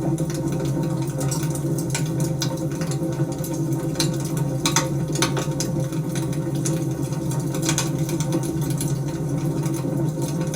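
Wood fire burning with a steady low rumble and scattered crackles and pops.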